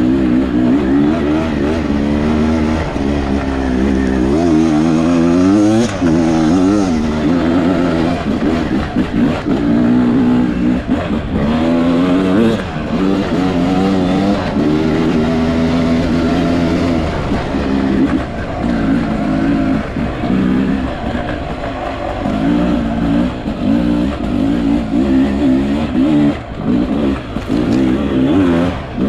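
Beta 300 RR two-stroke enduro motorcycle engine being ridden off-road, the throttle opening and closing over and over so the engine pitch keeps rising and falling.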